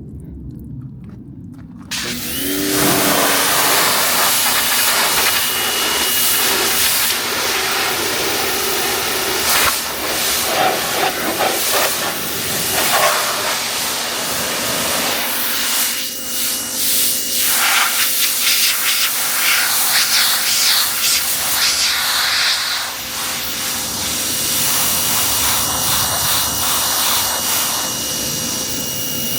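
Pressure washer jet spraying water onto a car's bodywork: a loud hiss that starts abruptly about two seconds in and shifts in tone as the spray moves across the panels.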